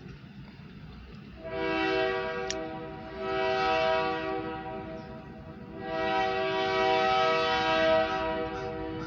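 Locomotive air horn sounding a chord in long blasts that swell and ease, starting about a second and a half in.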